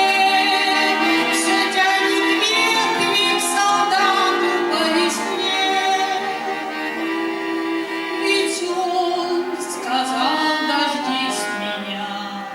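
A song: a woman's singing voice over musical accompaniment.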